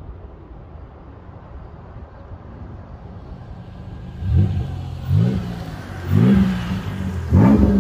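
Chevrolet Monte Carlo SS exhaust rumbling low through its mufflers. About halfway in, the engine is revved four times in quick succession about a second apart, each a short rising rev that gets louder toward the end.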